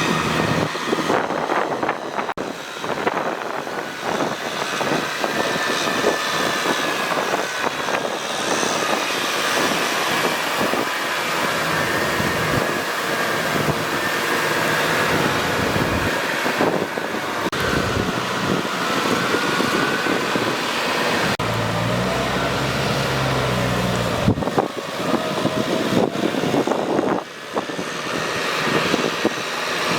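Kubota tractor's diesel engine running steadily, its pitch wavering slightly, with a deeper low hum for a few seconds about two-thirds of the way in.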